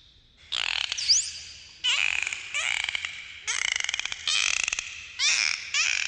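Dolphins whistling and clicking: a string of short calls, a little more than one a second, mixing rising and falling high whistles with rapid buzzing click trains.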